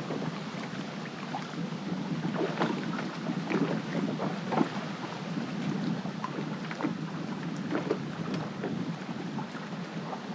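Wind and choppy water lapping against a boat hull, with frequent short, irregular slaps, heard through heavy wind-noise-reduction processing.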